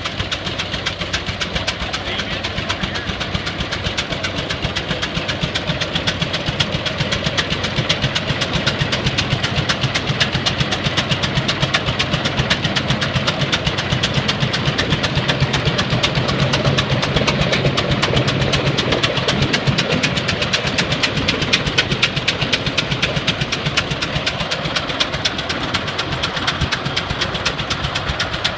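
Case 20-40 tractor engine running steadily with a rapid, even clatter; its low hum grows stronger for a few seconds around the middle.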